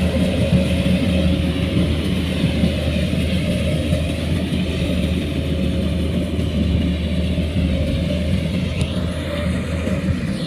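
A heavy farm machine's diesel engine running steadily, a constant low hum with no change in speed.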